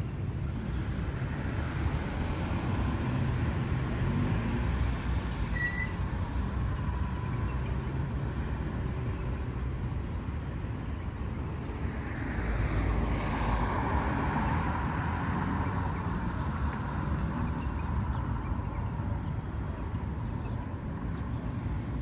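Street traffic: a steady low rumble of road vehicles, with one vehicle passing louder about twelve seconds in.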